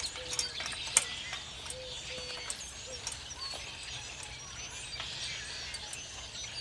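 Several birds chirping and calling outdoors: many short high chirps and a few short, lower, steady calls in the first couple of seconds. One sharp click sounds about a second in.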